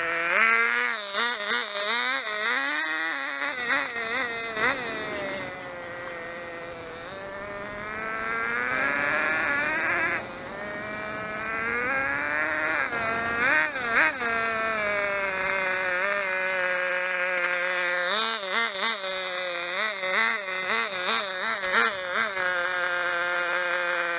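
Tiny engine of a 1/16 scale radio-controlled Enzo Ferrari model car running with a high, buzzing note. It is revved in quick blips, then climbs steadily in pitch, drops abruptly about ten seconds in, and builds again before more quick blips near the end.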